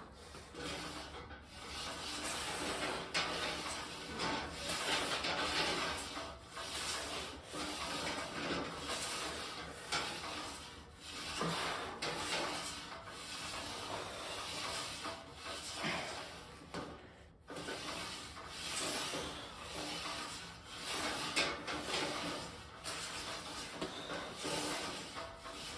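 Continuous rubbing and rustling noise that rises and falls irregularly, dipping briefly about two-thirds of the way through.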